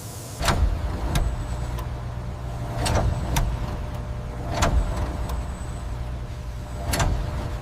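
A low, steady mechanical rumble with a series of sharp knocks or clangs, about seven scattered through it.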